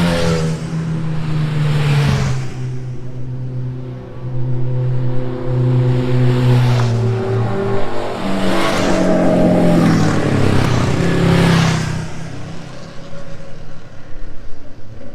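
Racing vehicle engine accelerating hard on a quarter-mile sprint run. Its note rises and falls through the run, loud through the middle, and fades after about 12 seconds.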